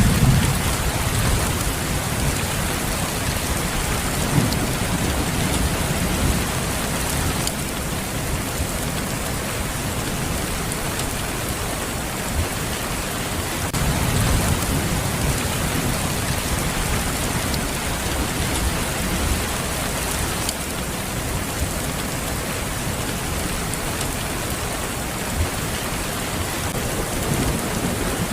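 Steady rain falling. Low rumbles of thunder swell up several times beneath it, the clearest near the start and about halfway through.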